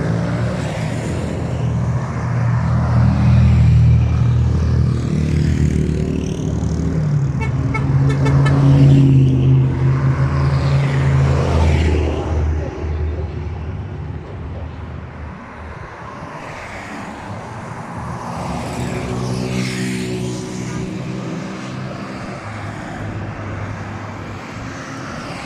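Trucks driving past one after another, their engines loud and low for about the first twelve seconds, then fading; another swells up and passes shortly after the middle.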